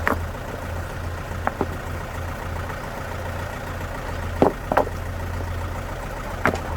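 An engine idling steadily with a low hum, with a few sharp knocks or clicks over it, two of them close together about four and a half seconds in.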